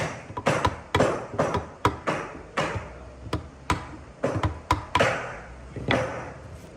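Hammer blows on wood, about two to three a second, each with a short ring, stopping about six seconds in.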